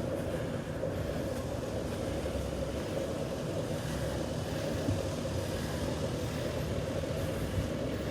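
Steady low rumble and hum of motor vehicles on a city street, with an even engine drone.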